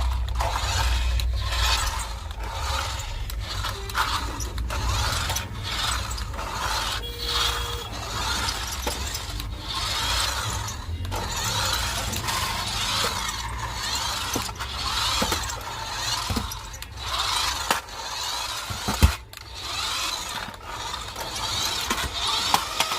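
Continuous irregular clicking and rattling of a small mechanism, with a low hum in the first half and one sharp knock about nineteen seconds in.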